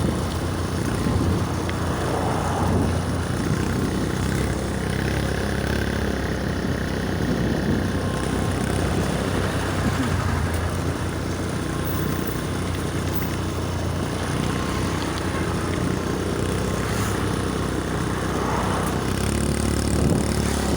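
Steady road-vehicle noise: a motor running at a constant pace with a continuous low hum.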